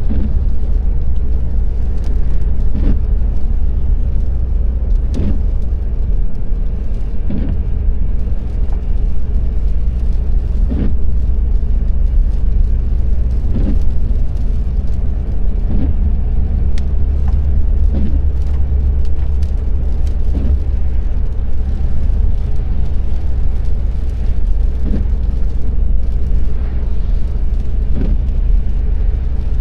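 Car driving: a steady low rumble of road and engine noise, with faint short knocks every couple of seconds.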